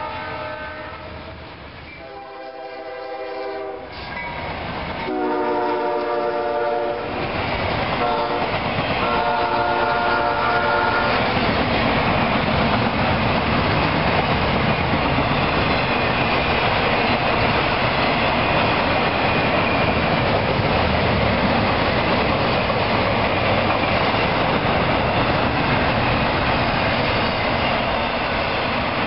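Freight locomotive horn sounding the grade-crossing pattern: two long blasts, a short one and a long one. Then the steady noise of a long double-stack freight train passing close by, its wheels clattering over the rails.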